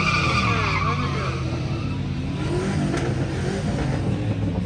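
Tires squealing over a vehicle engine running steadily; the squeal wavers in pitch and fades out after about a second and a half, leaving the engine.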